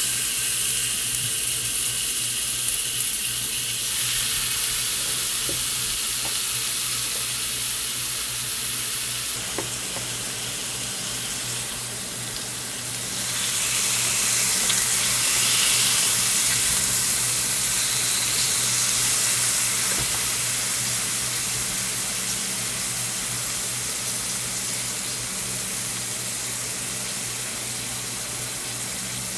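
Meat sizzling on a hot griddle, a steady hiss that grows louder about 13 seconds in, over a low steady hum.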